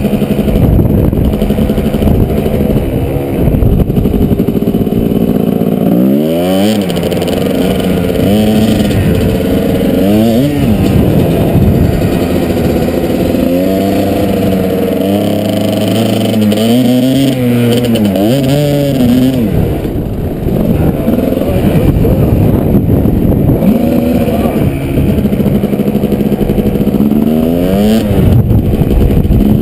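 Kawasaki KDX220 two-stroke single-cylinder dirt bike engine running under load while riding, revving up and dropping back again and again as the rider works the throttle and shifts, with wind rush underneath.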